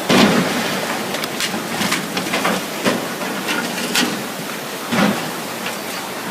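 Fast, swollen river current rushing in a steady noisy wash. Irregular knocks and thumps sound through it, the loudest at the very start.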